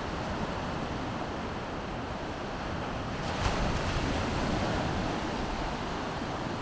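Baltic Sea surf washing steadily onto the shore, with wind buffeting the microphone; a wave breaks a little louder about three and a half seconds in.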